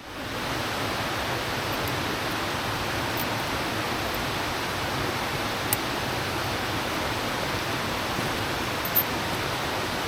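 Large waterfall crashing down a rock face, a steady, even roar of falling water, with a few faint clicks over it.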